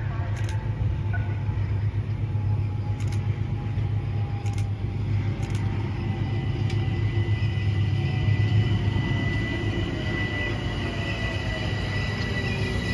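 Metro-North M7A electric multiple unit approaching and rolling past with a steady low rumble that builds to its loudest about two-thirds of the way through. A thin high tone comes in about halfway, and falling whines are heard near the end.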